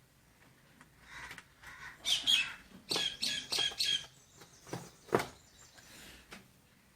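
Screws or nuts being turned out of an LED TV panel's mounting with a hand screwdriver: a run of short high squeaks, about four in quick succession a few seconds in, then two sharp clicks about five seconds in.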